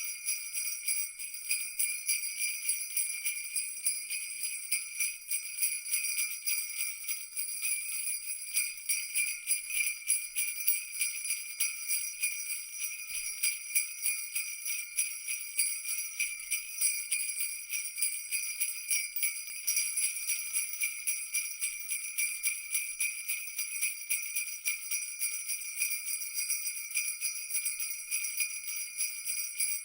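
Jingle bells shaken in a continuous, rapid jangle, their bright ringing steady throughout.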